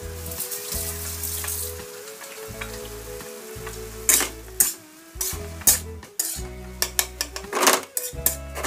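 Ground pork with diced potato and carrot sizzling in a metal wok. From about four seconds in, a slotted metal spatula stirs it in quick strokes, scraping and clinking against the wok.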